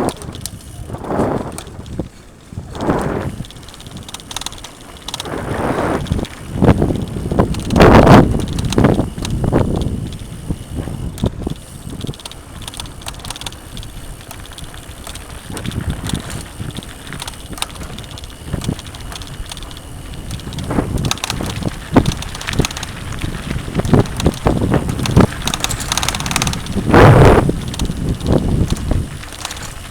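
Mountain bike ridden over a rough dirt trail: tyres on the ground and the bike rattling over bumps, with irregular surges of wind noise on the microphone, loudest about eight seconds in and again near the end.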